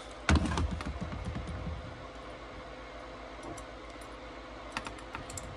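A sharp knock, then about a second and a half of low rumbling and rattling as parts are handled and fitted. After that comes a steady faint hum, with a few light clicks near the end.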